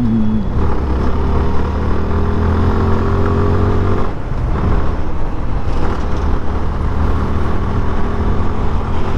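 Suzuki Gixxer FI ABS single-cylinder motorcycle engine running at a steady cruising speed under wind and road noise. About four seconds in, the steady engine note drops away, leaving mostly wind and road noise.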